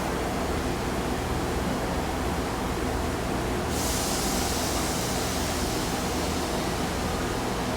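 Steady railway-platform noise: a low rumble under a hiss, with a brighter hiss coming in about four seconds in.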